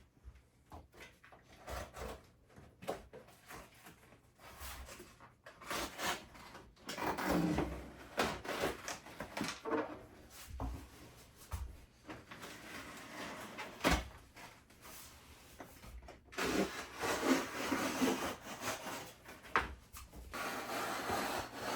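Old linoleum being pulled up from a kitchen floor: irregular rubbing, scraping and dragging with scattered knocks and clicks, the loudest a sharp knock about two-thirds of the way through.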